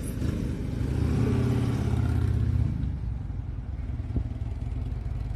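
Motorcycle engine running as the bike pulls away, its note steady for a couple of seconds and then fading as it rides off.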